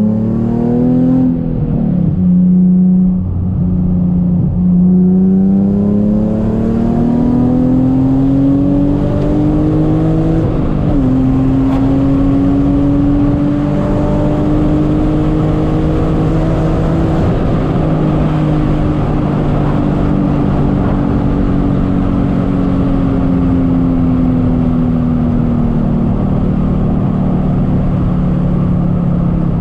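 Nissan 350Z V6 engine heard from inside the cabin, pulling up through the gears with upshifts about two and ten seconds in, then cruising at steady revs that slowly rise and ease off.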